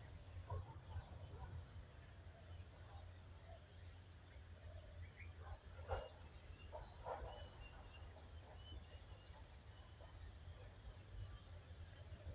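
Faint outdoor forest ambience with scattered short bird calls, including a brief run of high chirps midway, over a steady low rumble.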